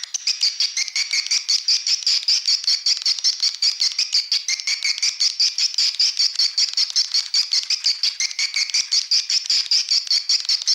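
Recorded swiftlet calls played as a lure track for swiftlet houses: a fast, even, high-pitched twittering of chirps, about six or seven a second, without a break.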